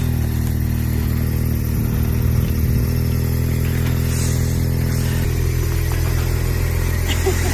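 A car engine idling steadily, with a brief swish of a snow brush about halfway through.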